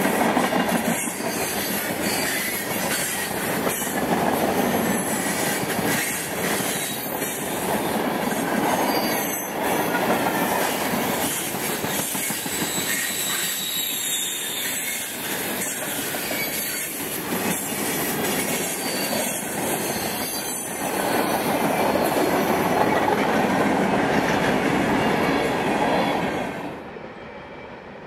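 Freight cars of a long CSX manifest train rolling past on a curve: steady rolling rumble with wheel squeal and repeated clacks over the rail joints. Near the end the sound drops to a much quieter, more distant rumble.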